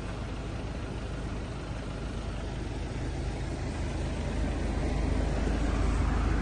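BMW F10 520's 2.0-litre engine idling with a steady low hum, getting a little louder toward the end.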